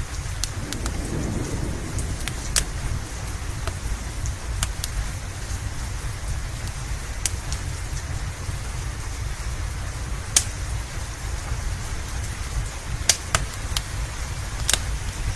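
Steady rain with a constant low rumble under it, and the occasional sharp pop of a crackling wood fire, a few loud ones near the end.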